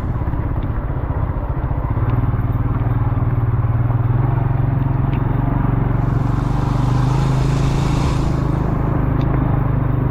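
Motorcycle engine running steadily at low speed over a rough forest track, with a few sharp clicks of clatter. A hiss rises about six seconds in and fades after a couple of seconds.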